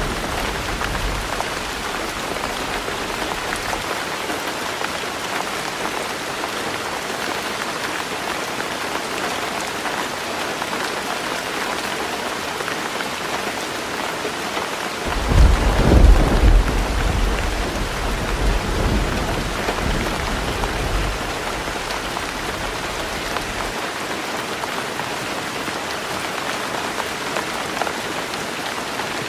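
Heavy rain falling steadily on a roof, an even hiss. Halfway through, a roll of thunder swells up and rumbles on for several seconds before fading.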